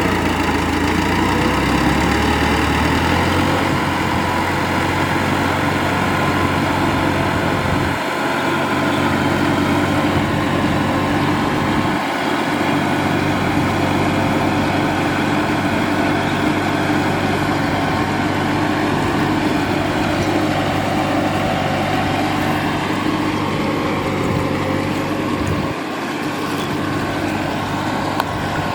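Farm tractor's diesel engine running steadily while ploughing a rice field, with brief dips in its low rumble a few times.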